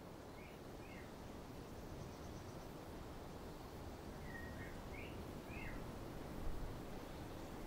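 A few birds chirping, two short calls about half a second in and a small cluster from about four to six seconds, over a faint steady low rumble of outdoor background noise.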